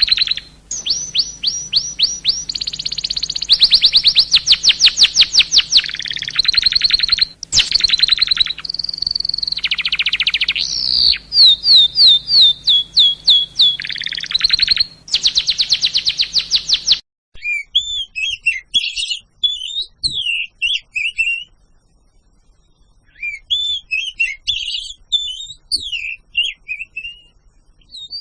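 Songbirds singing. Loud, fast runs of rising chirps at one high pitch repeat again and again, then about two-thirds of the way through the sound changes suddenly to softer, varied twittering with a short pause.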